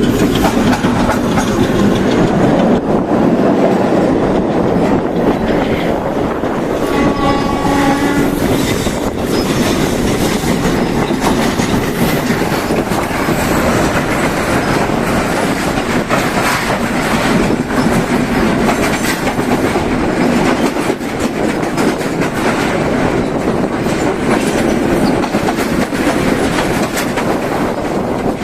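Train running along the track, its wheels clattering steadily over the rails. A horn sounds for about a second, some seven seconds in.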